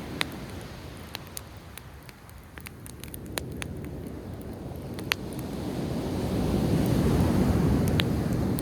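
Sea waves washing on the shore, ebbing for a couple of seconds and then swelling again, with a few sharp pops and crackles from a driftwood campfire.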